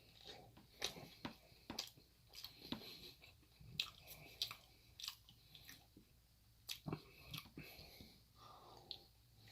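Close-up chewing of a mouthful of chickpea curry: faint, irregular wet mouth clicks and soft crunches, several a second.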